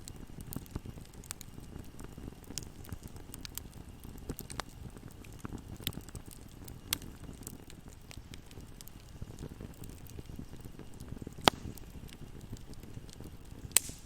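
Wood fire burning in a fireplace: a steady low rumble of flames with frequent small crackles and two sharp, loud pops near the end.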